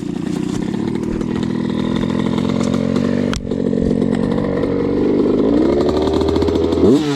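Dirt bike engine running at low revs, with a short dip about halfway through and a quick rev near the end.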